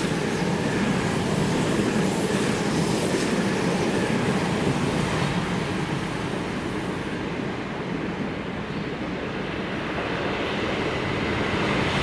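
Electric train running past on the tracks, a steady rumble of wheels on rail that eases a little after the middle and builds again near the end.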